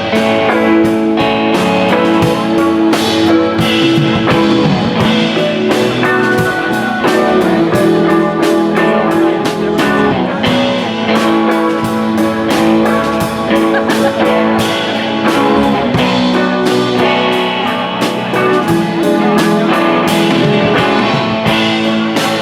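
Live rock band playing an instrumental break: guitars over a steady drum-kit beat, with no singing.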